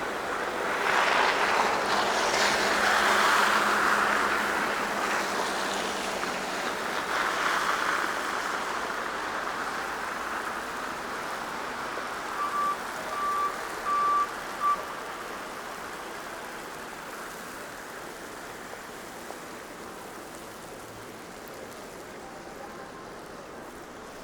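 Traffic on a slushy, snow-covered city street: vehicles hiss past in the first several seconds, one then another, and the sound slowly fades. About halfway through come four short, high electronic beeps.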